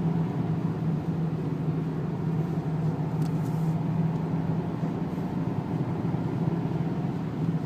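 Renault 2.0-litre turbo diesel engine running steadily at low speed, heard from inside the cabin, under an even hiss of tyres on a wet track.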